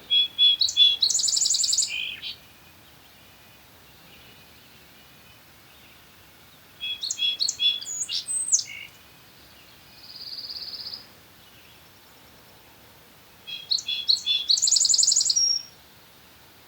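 A small songbird singing a loud song three times, about six seconds apart. Each song is a few quick chirped notes running into a fast, high trill. A fainter buzzy trill sounds once between the second and third songs.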